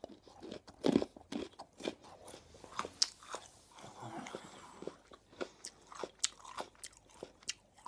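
Fresh, crisp raw carrot being chewed close to the microphone: many short, irregular crunches.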